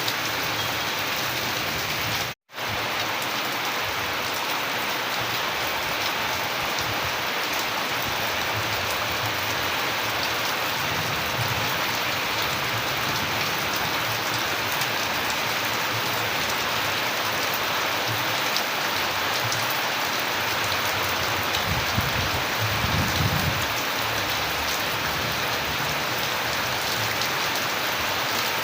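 Steady, heavy rain falling on a surface, an even dense hiss of drops. The sound cuts out completely for a split second about two seconds in, and a short low rumble rises under the rain toward the end.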